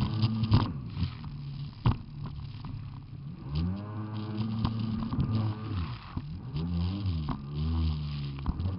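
Jet ski engine revving up and down, its pitch rising and falling repeatedly from about three and a half seconds in, with a few sharp knocks.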